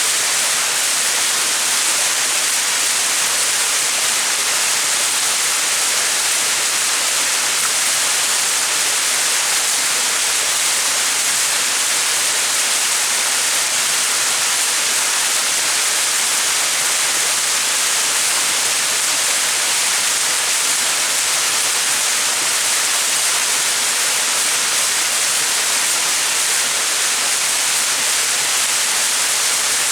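Small mountain waterfall splashing steadily, an even hiss of falling water with most of its sound high up.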